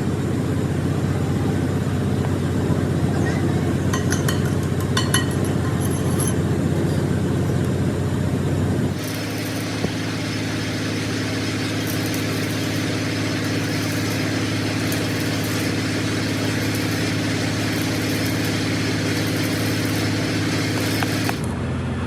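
Steady drone of running machinery, an engine or motor, with a few light metallic clinks about four to six seconds in. The drone changes abruptly about nine seconds in and again near the end.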